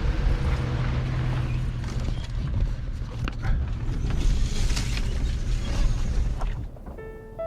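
Off-road 4x4 truck driving over a rough dirt trail: a steady low engine rumble with scattered knocks and creaks from the body and suspension. The rumble drops away about six and a half seconds in, and piano notes start near the end.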